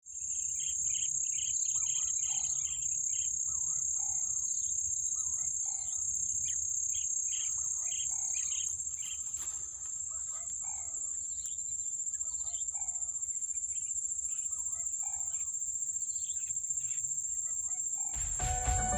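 A steady, high-pitched insect drone, with short bird calls repeating roughly once a second over it. Music starts near the end.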